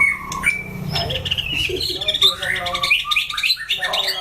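White-rumped shama song: a fast, varied run of whistles, chirps and harsher notes, growing busier about a second in.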